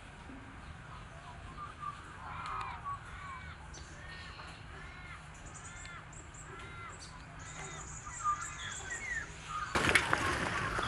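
A bird calling over and over, a steady string of short arched whistled notes, one about every 0.7 seconds. Near the end a sudden louder rush of noise with sharp clicks sets in.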